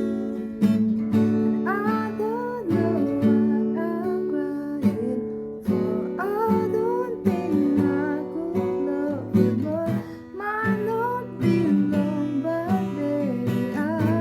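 Music: an acoustic guitar strummed in steady chords, with a gliding melody line over it.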